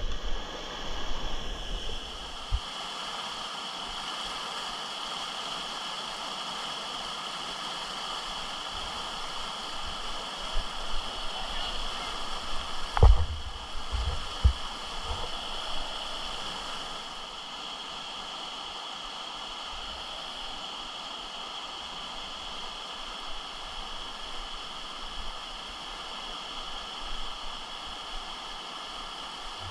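Steady rush of whitewater rapids, with a couple of brief knocks about thirteen and fourteen seconds in.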